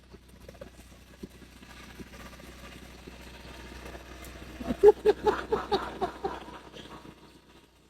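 John Deere lawn tractor engine running with a steady low hum as it tows a load across the yard. About five seconds in, a person laughs in a quick run of short bursts over it.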